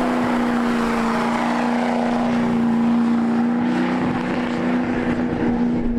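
Engine held at a steady high pitch under a heavy rushing noise, running hard without changing speed.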